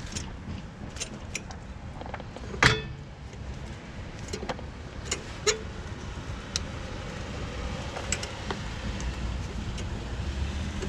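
Scattered light metallic clicks and clinks of hand tools and brake parts being handled during a rear brake pad job, with one sharper knock about two and a half seconds in, over a steady low background rumble.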